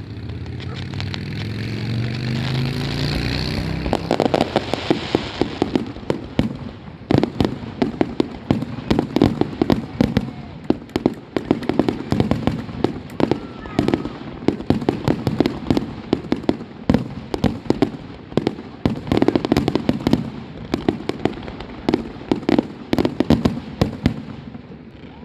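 Fireworks going off. A low rising tone in the first few seconds gives way to a dense barrage of rapid, overlapping bangs and crackle that keeps up until near the end.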